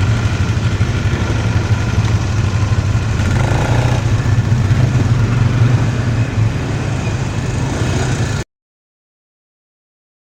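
Quad bike engine running steadily. About eight seconds in the sound cuts off abruptly to dead silence.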